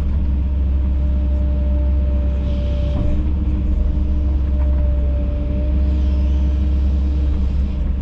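Kobelco SK210 excavator's diesel engine running steadily, a constant rumble with a held tone over it.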